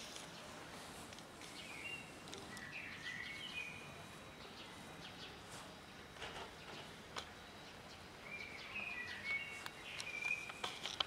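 A small songbird twittering in two short bursts of quick high notes, several seconds apart. Faint clicks run alongside, from cats crunching dry food out of plastic tubs.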